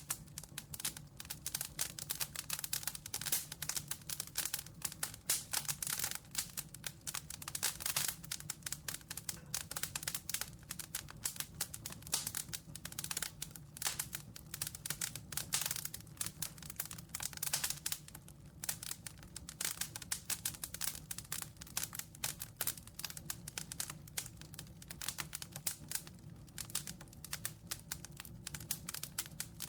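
Campfire crackling: dense, irregular pops and snaps of burning wood over a low steady rumble of the flames.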